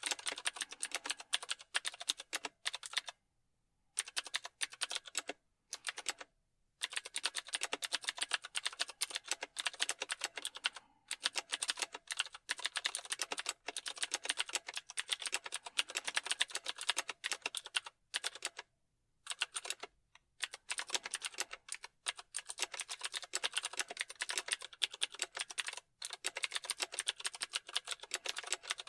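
Typing on a computer keyboard: long runs of rapid keystrokes clicking and clattering, broken by several pauses of about a second.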